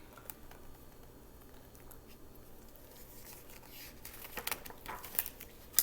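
Faint rustling and a few soft clicks of paper, as from a book's pages being handled and turned, with one sharper click near the end.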